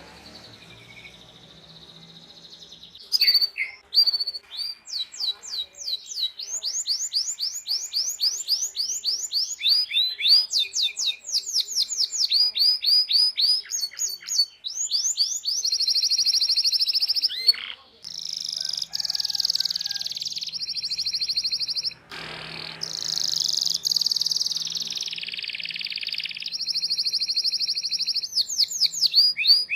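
Domestic canary singing. A few seconds in it breaks into fast repeated rising 'cuit cuit' chirps, several a second, then moves into long rolling trills in the second half.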